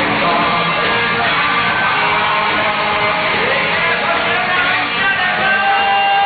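Live band playing a pop medley, guitar to the fore, with held notes ringing over a full accompaniment.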